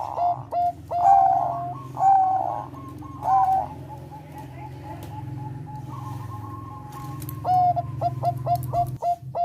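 Thai zebra dove (perkutut bangkok) singing its cooing song: runs of quick, clipped notes and longer held coos. It is quieter around the middle and ends in a fast run of short notes. A steady low hum lies underneath.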